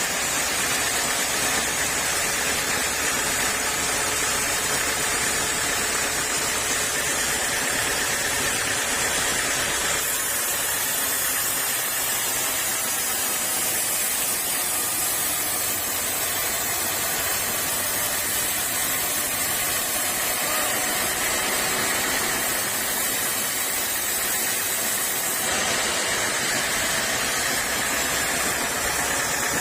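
Sawmill machinery running steadily, a continuous mechanical drone with a strong hiss; the hiss changes character about ten seconds in and again near the end.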